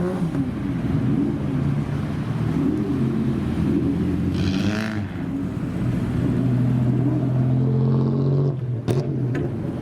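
Car engine revved in a series of short blips, its pitch rising and falling over and over, then held at a steady higher pitch for a couple of seconds before dropping away near the end.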